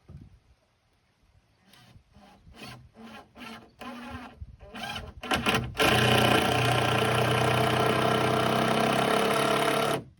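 A run of about eight short scraping strokes, then a machine running steadily with a humming pitch that cuts off abruptly.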